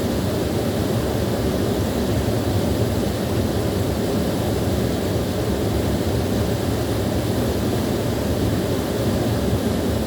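Small waterfall, water pouring with a steady, low rush that never changes.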